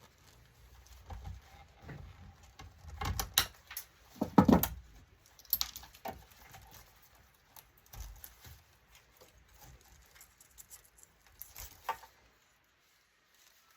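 Irregular clicks, knocks and clatter of plastic and metal parts being handled and pulled apart while an LCD touchscreen monitor is dismantled, loudest about four to five seconds in, with a short lull near the end.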